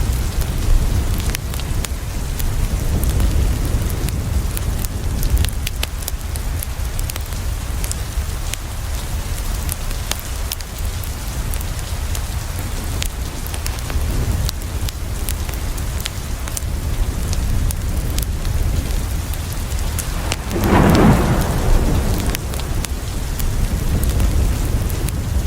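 Steady rain falling on a window, with a low rumble underneath and scattered sharp crackles from a wood fire. A louder rumble swells for about a second and a half near the end.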